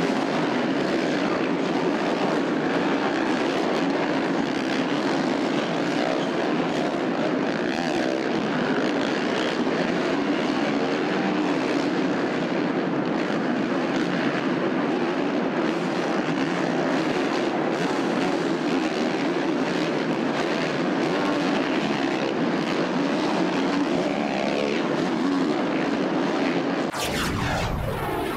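450-class supercross motorcycle engines revving and running hard around the dirt track, a steady, dense engine noise that rises and falls with the throttle. Near the end a brief sweeping sound passes and the noise begins to fade.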